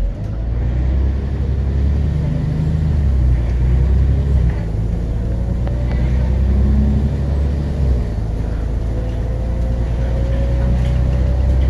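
A Scania CN94UB Omnicity city bus's DC9.01 nine-litre five-cylinder diesel, heard from inside the bus, pulling away and accelerating with a heavy rumble. The engine note drops a couple of times as the ZF automatic gearbox shifts up, and near the end a faint whine rises as the bus gathers speed.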